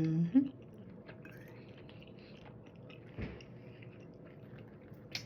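A person chewing food close to the microphone, with soft mouth clicks and smacks. A brief hum of the voice comes right at the start.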